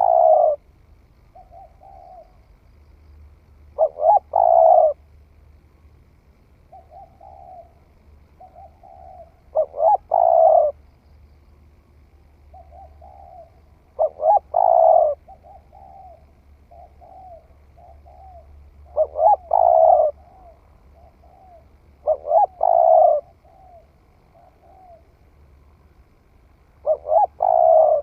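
Spotted dove cooing, a bird newly come into song: a loud coo phrase repeated about every four to five seconds, with softer coo notes in between.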